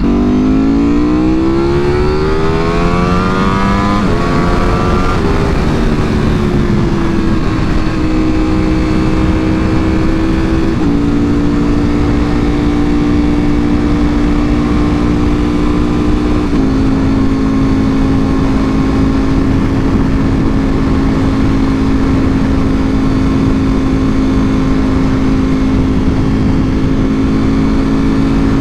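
Ducati Panigale V4R's V4 engine through an Akrapovic full exhaust, accelerating with a steeply rising pitch for about four seconds. It then shifts up in several steps, each a small drop in pitch, and settles to a steady cruise at constant revs, over a steady low rush of noise.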